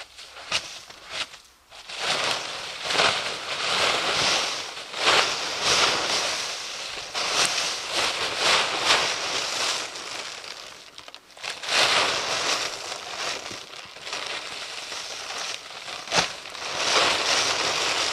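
Plastic tarp being handled, crinkling and rustling in repeated surges, with one sharp snap near the end.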